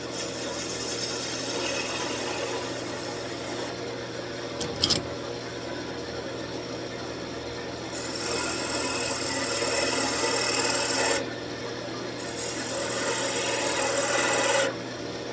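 Wood lathe running, with a tool scraping against the spinning wooden workpiece in three long passes that stop about a third of the way in, about three-quarters of the way in, and near the end. A single sharp click a third of the way in.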